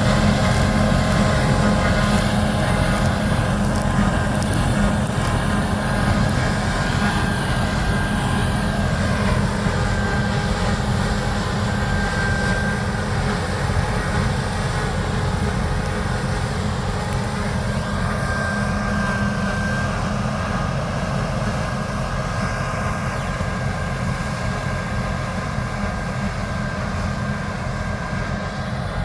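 Large diesel harvest machinery working in a wheat field: a steady engine drone with a mechanical whine over it. It fades slowly, as if the machines are drawing away. About nine seconds in, one of the whining tones slides down in pitch.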